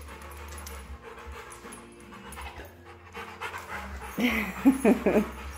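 A Rottweiler panting softly after a walk. About four seconds in come a few short vocal sounds that rise and fall in pitch.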